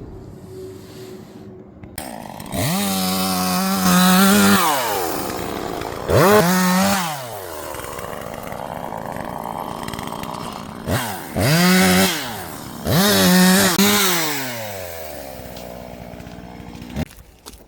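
Two-stroke chainsaw engine revved up to full speed four times, with the pitch climbing and holding high, then dropping back between runs. It winds down and stops near the end.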